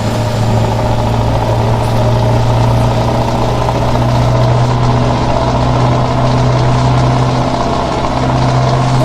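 Scania truck's diesel engine running with a steady low drone.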